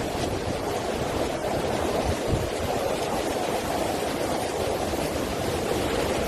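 Steady rushing roar of a coastal windstorm, with gusts buffeting the microphone in low rumbles now and then.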